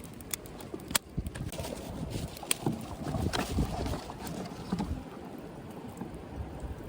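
Wood fire crackling in a compact fire pit: scattered sharp pops over a low rumble of wind on the microphone.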